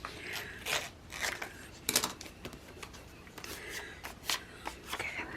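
Paper and sticker sheets being handled: scattered rustles, light taps and short scrapes.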